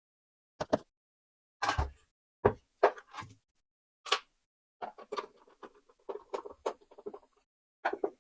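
Plastic casing of a fan room heater being handled and fitted back on: irregular knocks and clicks, with a busier run of small rattling taps in the second half.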